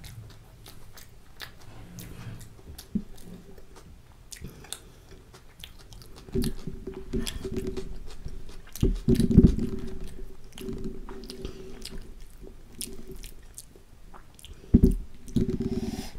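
Close-miked eating sounds: chewing with wet mouth clicks, and fingers tearing soft kulcha bread and scooping chickpea curry on a plate. Louder low thumps come about nine seconds in and again near the end.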